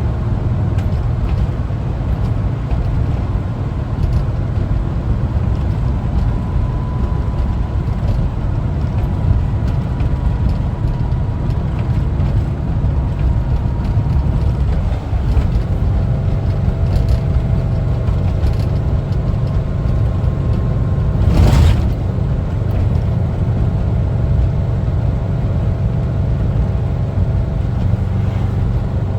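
Air-cooled Type 4 flat-four engine of a 1974 Volkswagen Westfalia camper bus running steadily while driving, with constant low engine and road rumble. A brief whoosh comes about two-thirds of the way through.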